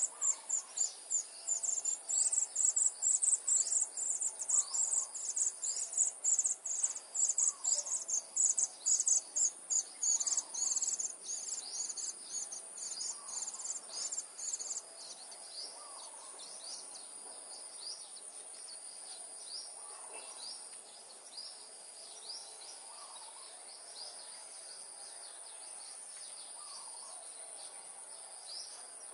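Outdoor insects, cricket-like, with a steady high drone and loud rapid high-pitched chirping that stops about halfway through. Fainter bird calls repeat every second or two.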